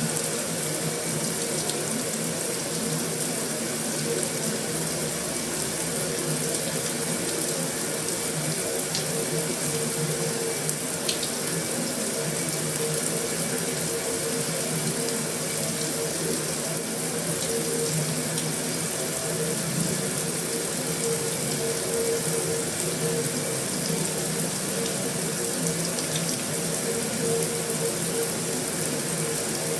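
Heavy rain falling steadily on a metal roof, a dense even hiss with an occasional sharper drop tick.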